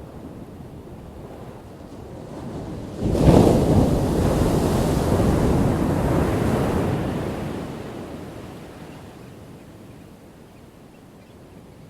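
A single ocean wave breaking: low surf wash, then about three seconds in the wave crashes suddenly and loudly, rushes on for a few seconds and fades back down to the low wash.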